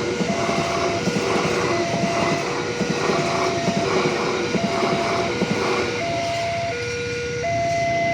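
A train passing over a railway level crossing, rumbling and clattering, while the crossing's warning alarm sounds two alternating tones. The train noise dies away about six seconds in, leaving the two-tone alarm going.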